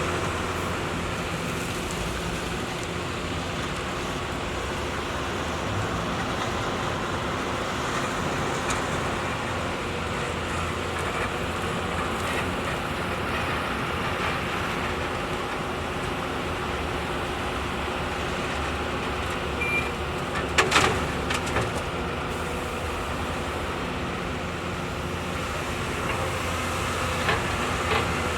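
Heavy diesel construction machinery running steadily with a constant engine hum. A few short metallic clanks come about three quarters of the way through, and two more near the end.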